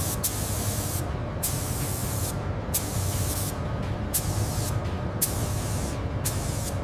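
Compressed-air paint spray gun hissing as paint is sprayed on in repeated passes, the hiss cutting in and out several times over a steady low hum.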